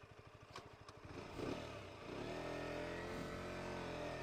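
KTM RC 125's single-cylinder four-stroke engine running at low revs with a rapid even pulse, then revving up about a second in and holding steady revs from about two seconds in.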